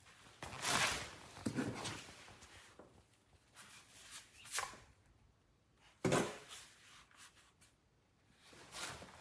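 Intermittent rubbing and scraping handling noises with a few clicks, and one sharp knock about six seconds in; no motor running.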